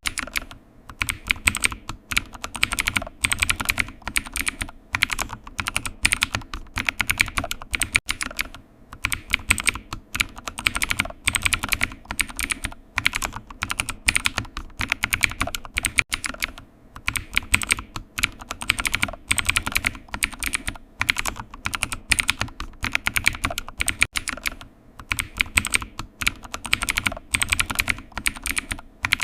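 Continuous typing on a computer keyboard: rapid key clicks in runs with short pauses between them.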